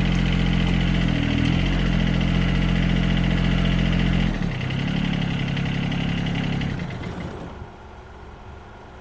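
John Deere 2305 compact tractor's three-cylinder diesel engine running steadily. About four seconds in its note changes and the low rumble drops away. A few seconds later the engine sound dies away.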